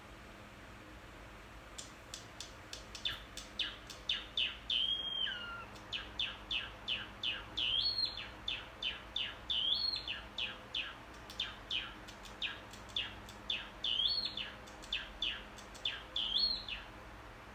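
Pet bird chirping: a long run of short, quick downward chirps, about two to three a second, starting about two seconds in. Every couple of seconds a longer, bending whistled note breaks the run.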